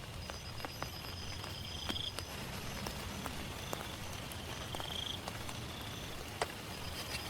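Steady rain with scattered drops ticking sharply. Over it, short high-pitched animal calls repeat about once a second, with a thin steady high trill behind them.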